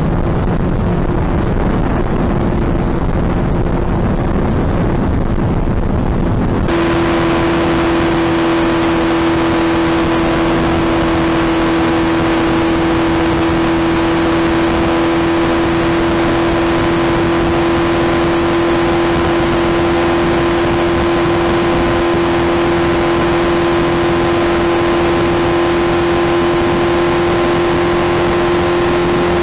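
Suzuki Hayabusa's inline-four engine running at a steady, unchanging engine speed. For the first few seconds the sound is muffled and windy, then about a third of the way in it abruptly turns clearer, with a steady engine hum held at one pitch to the end.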